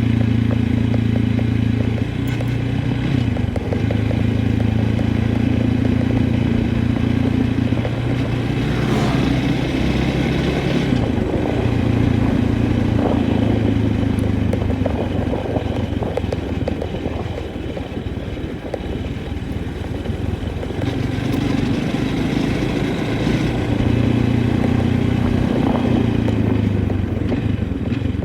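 An engine running steadily, its pitch shifting up and down a few times.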